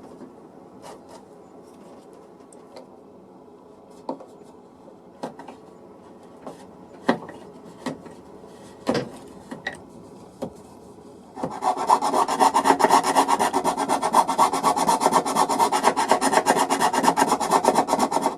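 Scattered light clicks and knocks of parts being handled, then, from about two-thirds of the way in, loud and fast back-and-forth rasping of wood being abraded by hand.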